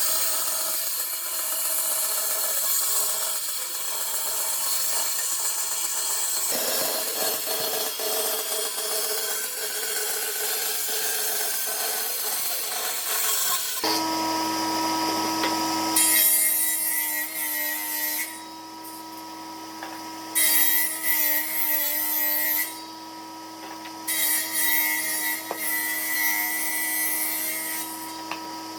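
Power woodworking tools working oak. For the first half there is continuous rasping of wood being cut or abraded. About halfway in this gives way to a steady motor hum, broken three times by bursts of high hiss lasting a few seconds each as the tool bites into the wood.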